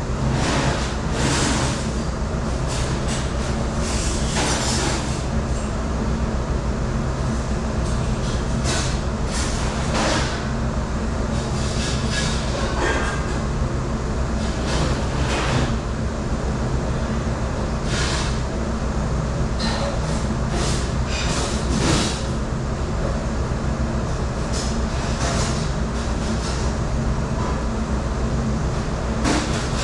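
Steady machine drone of a commercial dish room, with frequent short clatters of dishes and racks being handled.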